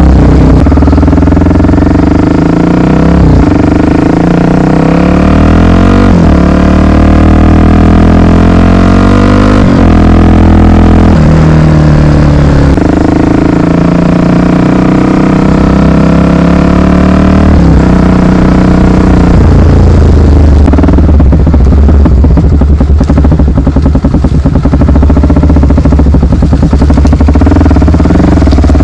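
Honda XR 250 Tornado's single-cylinder four-stroke engine running under way, its pitch rising and falling with several gear changes in the first ten seconds. It then settles into a steadier, rougher drone.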